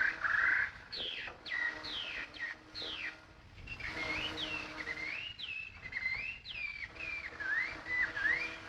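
Caged songbird singing: a loud chattering note at the start, then several quick, sharply falling whistles, and from about halfway a longer phrase of looping whistled notes that rise and fall.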